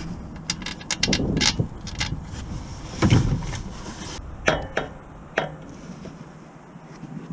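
Clinks and knocks of tools and parts being handled during car repair work: a quick run of sharp clicks in the first second and a half, two heavier thuds about one and three seconds in, and a few more single clicks later.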